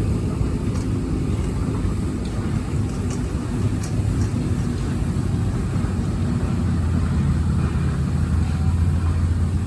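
Engine running steadily with a low drone that grows a little stronger near the end, with a few faint ticks.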